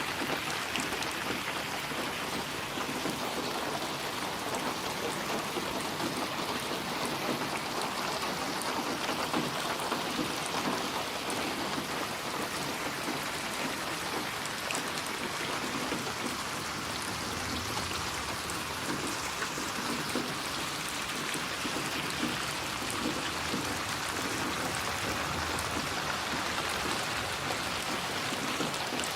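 Steady rain falling, with a dense patter of drops on surfaces.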